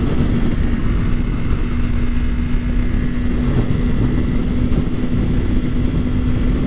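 Kawasaki Ninja 400's parallel-twin engine running at a steady pitch at freeway cruising speed, under heavy, even rushing noise from the ride.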